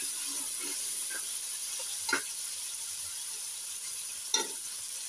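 Chopped onion and tomato sizzling in hot oil in a metal kadai while a steel ladle stirs them, with two sharp clicks of the ladle against the pan, about two seconds in and again near the end.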